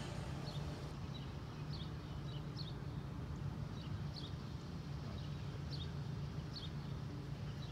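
Small birds chirping in short, high notes, about one or two a second, over a steady low background rumble.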